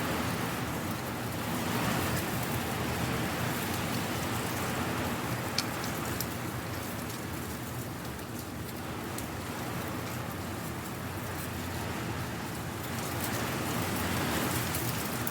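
Strong wind blowing through dry leaves, a dense rustling hiss that swells and eases in gusts, with scattered crisp crackles and one sharper snap about five and a half seconds in.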